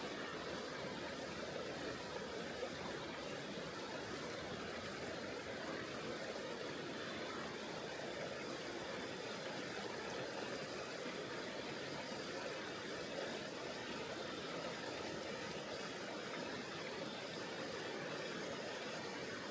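A mountain river flowing steadily: an even, unbroken water noise that does not change.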